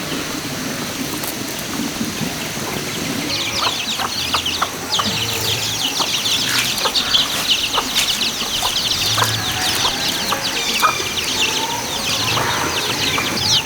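Dense, rapid high chirping of many small birds or chicks, beginning about three seconds in, over a steady high insect whine, with a few scattered knocks.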